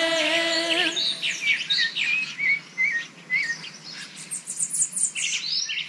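Songbirds chirping in a quick run of short, high notes. The last held chord of music fades out about a second in.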